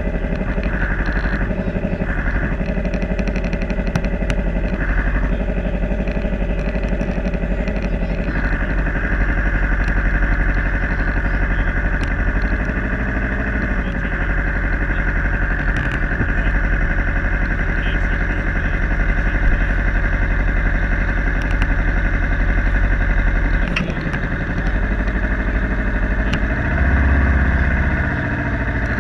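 Yamaha R3's 321 cc parallel-twin engine idling steadily with the bike at a standstill. Near the end a louder low rumble of a car passing close by rises over it.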